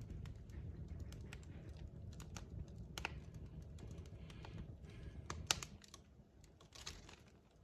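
Wood fire crackling in a fireplace: irregular sharp pops and snaps of burning logs over a low steady rumble, with the loudest snap about five and a half seconds in.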